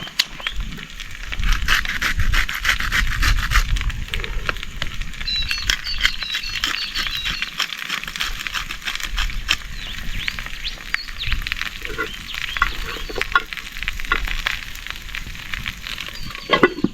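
Diced potato and sweet potato sizzling and crackling in hot oil in a camp oven, frying to crisp up.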